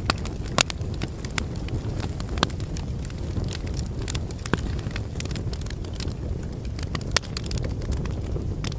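Logs burning in a fireplace: a steady low rumble of flames with sharp, irregular crackles and pops scattered throughout.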